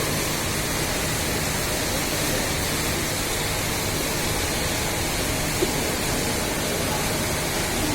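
Steady rushing noise that holds an even level throughout.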